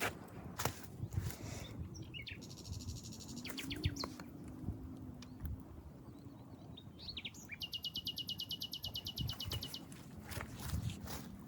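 Songbirds singing: a short trill shortly after two seconds in, and a longer, louder trill of fast, evenly repeated high notes around eight seconds in, with a few light clicks and knocks between.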